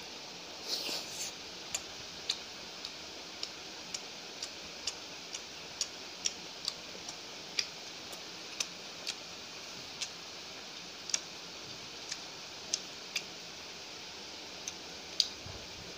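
A person chewing a mouthful of chicken curry and paratha: sharp, irregular wet lip-smacking clicks, about one or two a second, over a steady hiss, with a short rustle about a second in.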